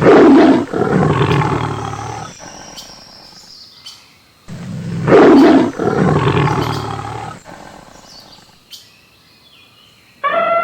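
A large wild animal roaring twice, each roar about three seconds long and fading out, with birds chirping faintly between. Near the end a different animal call begins, with pitch that falls.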